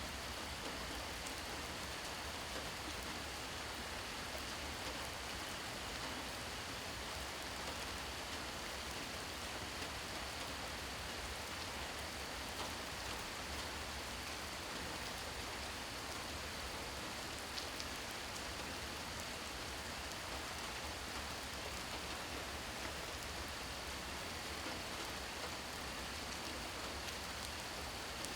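Steady rain falling, an even hiss with the odd single drop standing out, and a faint steady high-pitched tone underneath.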